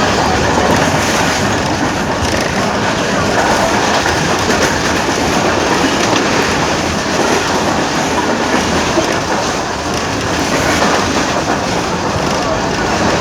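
Train passing close by at speed: a steady, loud rush of wheels and carriages running over the rails.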